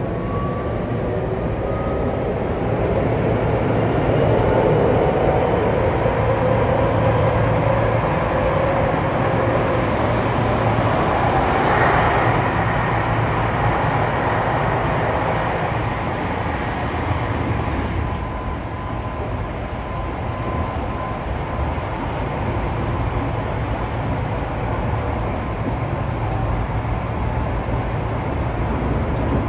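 Saitama Railway 2000 series electric train running on the rails, heard from inside the carriage: a steady rumble of wheels and track, with the motor whine rising in pitch near the start and a steady hum later on.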